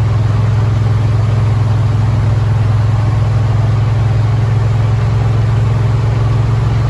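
Yamaha Wolverine side-by-side's engine running steadily, a constant low hum that holds one pitch.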